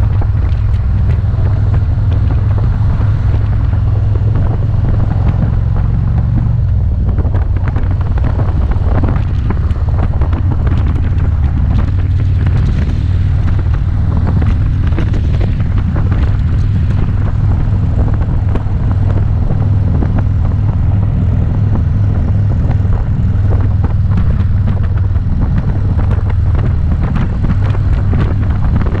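Motorcycle engine running steadily at cruising speed, a constant low drone, with wind buffeting the microphone.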